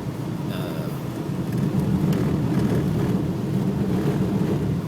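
Road and engine noise inside a car driving through a blizzard: a steady low rumble that grows louder about a second and a half in.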